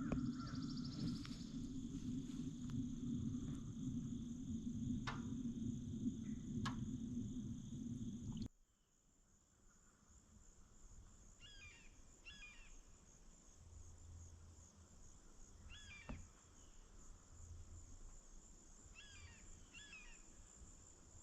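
Rural outdoor ambience: insects trilling steadily on one high note. A low steady rumble runs for the first eight seconds or so and cuts off suddenly. After that, a few short bird chirps come through, twice in quick pairs.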